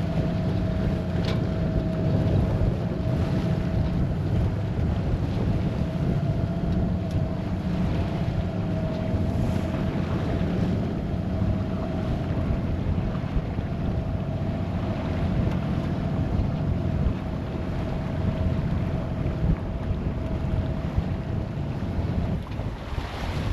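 Sailboat under way: wind buffeting the microphone over a steady low rush of water along the hull, with a thin steady hum that stops near the end.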